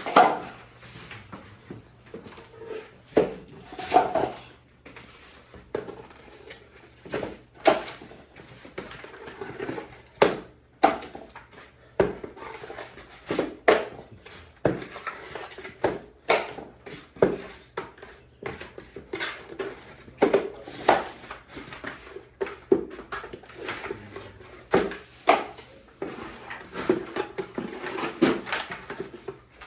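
Metal plastering knife and trowel scraping and clacking against a mud pan and the wall while working fast-setting hot mud (setting-type joint compound): irregular sharp scrapes and taps about once a second.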